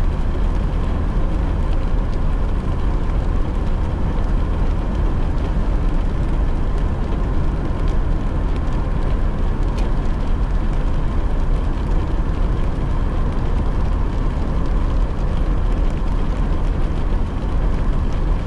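Steady low road and tyre noise inside a car driving in the rain, with faint ticks of raindrops on the car.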